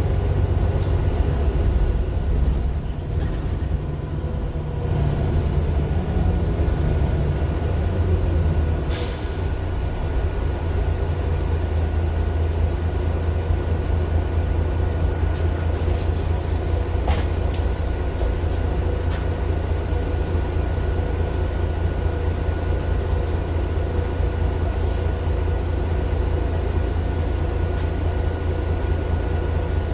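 Mercedes-Benz Citaro LE city bus's OM 457 hLA six-cylinder diesel running, heard from inside the bus: a steady low drone with a faint steady whine above it. The engine note shifts in the first few seconds and then holds, and a few short clicks or rattles come around the middle.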